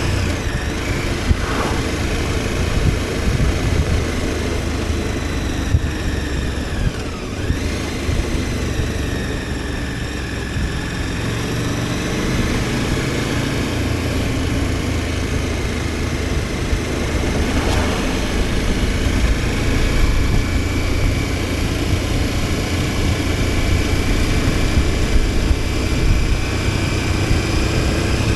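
KTM 1290 Super Adventure S's V-twin engine running steadily under way, its note dipping and rising gently with the throttle.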